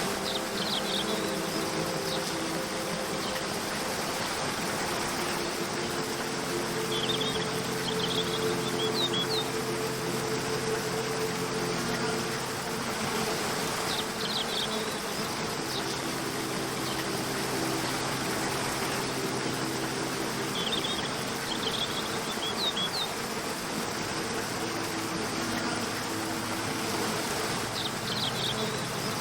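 Steady rush of a waterfall under soft sustained low tones of calm background music. Short clusters of high chirps recur about every seven seconds.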